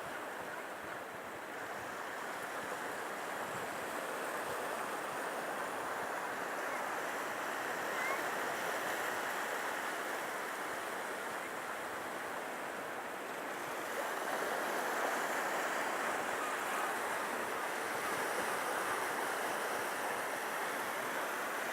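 Baltic Sea surf washing onto a sandy beach: a steady rushing hiss that swells a little about two-thirds of the way through.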